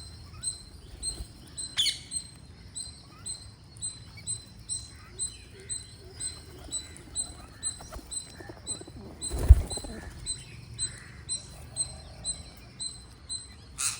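Green parrot giving a short, high-pitched squeak over and over, about twice a second, with a single thump about nine and a half seconds in.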